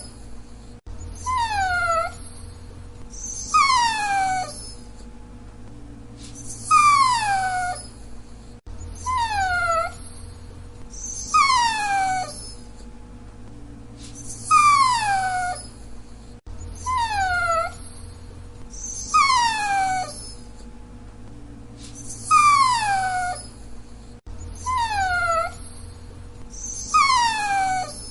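Dachshund whining: about eleven short, high-pitched whines, each falling in pitch, in groups of three that repeat the same way about every eight seconds.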